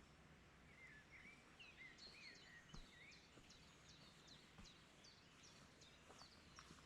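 Faint birdsong in a still, quiet wood: a few wavering whistled notes, then a long run of short, high chirps repeated two or three times a second.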